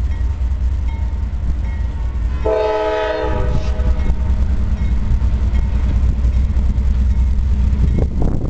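Diesel freight locomotive's air horn sounding one short blast of just under a second, about two and a half seconds in, over a steady low diesel rumble. Near the end a rising rattle and clatter of the approaching freight train sets in.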